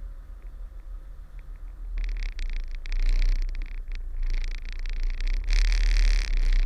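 Kenworth truck's diesel engine running at low revs, a steady deep rumble. From about two seconds in, an irregular hiss comes and goes over it, loudest near the end.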